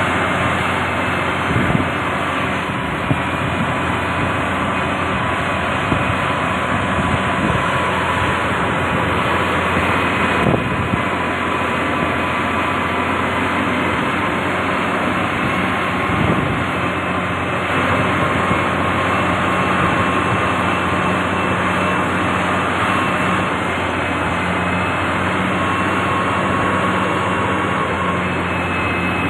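The diesel engine of heavy road-building machinery running steadily under load, with a few short knocks at about two, ten and sixteen seconds in.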